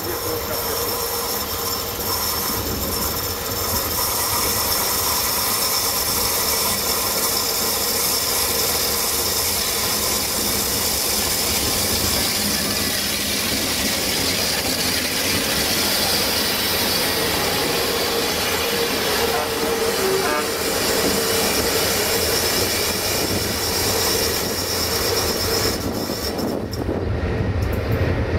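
A train moving along the track, with a steady rumble and a faint high squeal from the wheels. The high sound fades about two seconds before the end as a low rumble grows.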